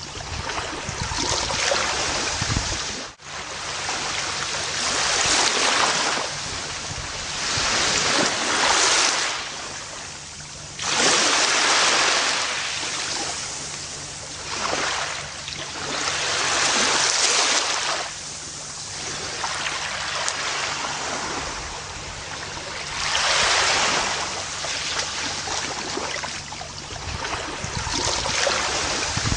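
Gentle ocean waves breaking and washing up a beach, the surf swelling and fading every few seconds, with a brief drop-out about three seconds in.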